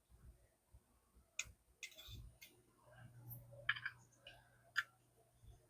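Faint, scattered clicks and ticks from small plastic parts and wire connectors being handled inside an opened microscope base, with five or six short clicks spread across the few seconds.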